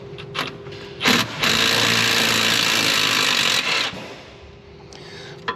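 A power tool runs in one steady burst of about two and a half seconds, starting just after a sharp knock about a second in and then dying away.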